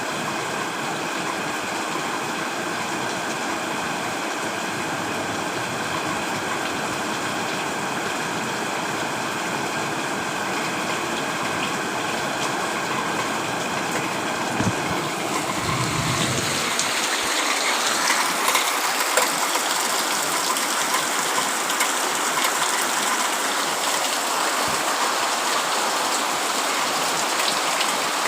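Heavy rain falling steadily. A little past halfway it changes to a brighter, crackling patter of individual drops hitting a surface, like rain on a tent or tarp.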